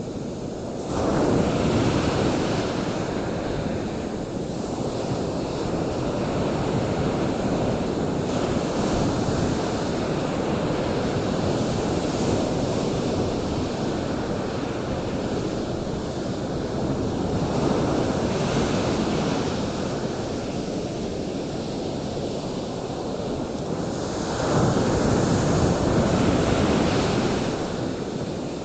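Steady rushing noise like ocean surf, swelling louder about a second in and again near the end.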